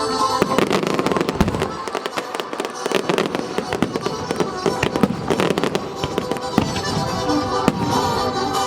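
Fireworks bursting and crackling in rapid, dense succession over show music.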